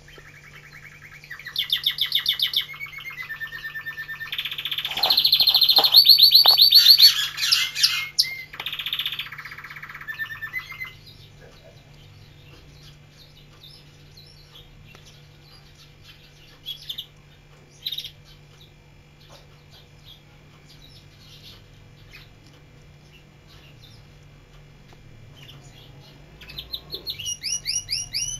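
Domestic canary singing: a run of fast rolling trills and repeated high notes lasting about ten seconds, then a few single chirps, and another short trill near the end.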